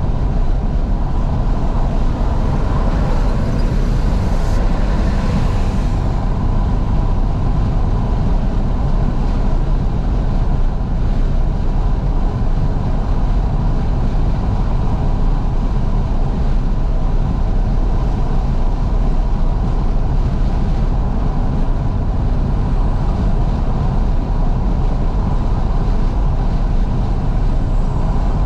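Steady wind and road rumble inside a moving 2012 Fiat 500S driven with all its windows wide open, with the car's engine running underneath. A brief hiss rises about five seconds in.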